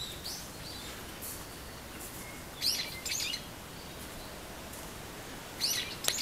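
Songbirds chirping: short high calls, a couple of faint ones at the start, two louder bursts in the middle and another near the end, over a steady background hiss.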